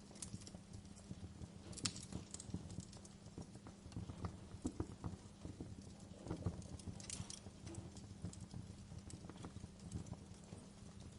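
Wood fire crackling in a fireplace: irregular pops and snaps over a low steady rumble, with a couple of louder snaps about two and seven seconds in.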